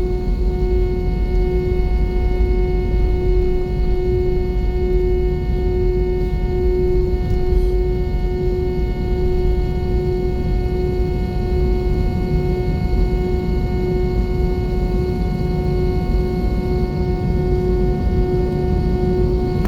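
Airbus A320 cabin noise: a steady jet-engine and airflow rumble with a steady droning hum over it.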